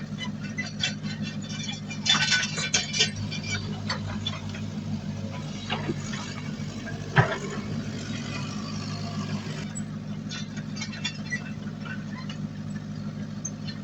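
Diesel engine of heavy earthmoving machinery running steadily, with a cluster of metallic clanks and knocks about two seconds in and a single sharp bang about seven seconds in.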